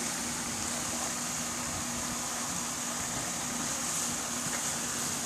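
Steady room noise: a constant low hum under a high, even hiss, with no distinct events.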